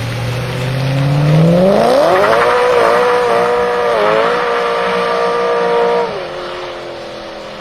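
A performance car engine revving up hard, holding at high revs for about three seconds with slight wobbles, then dropping away sharply as the throttle is released.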